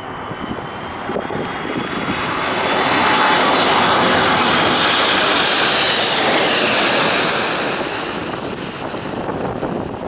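Airliner passing low overhead. Its engine noise swells to a peak in the middle, then fades, with a high whine that drops in pitch as it goes by.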